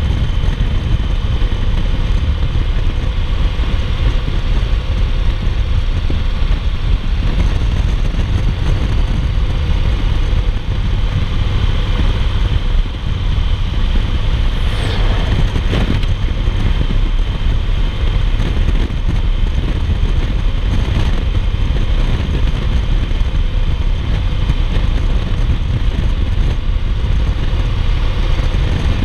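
2008 Yamaha Roadliner XV1900's air-cooled V-twin engine running steadily at highway cruising speed, mixed with wind noise over the helmet-level camera. About halfway through, an oncoming semi-truck passes with a brief falling whoosh.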